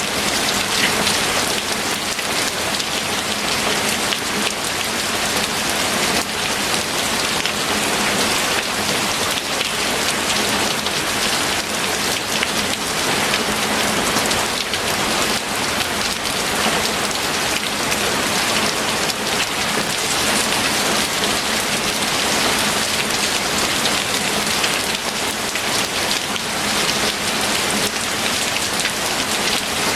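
Steady rain falling on a surface, a dense even hiss thick with fine drop patter.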